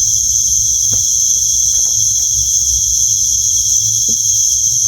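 Night insect chorus, crickets trilling in a steady, unbroken high-pitched drone, with faint rustling and small knocks beneath.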